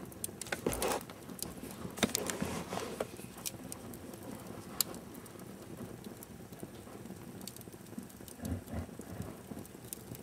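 Wood fire in a fireplace crackling, with irregular sharp pops and snaps, several close together in the first three seconds and a single sharp pop near five seconds, plus a duller low sound near the end.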